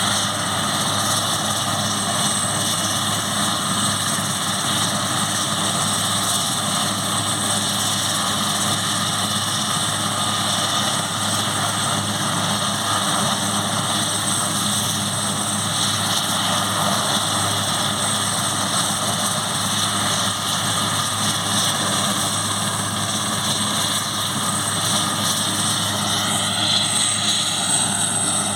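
Airbus AS 532 Cougar helicopter running steadily: the whine of its twin turboshaft engines over the rotor noise, with a slight change in the whine near the end.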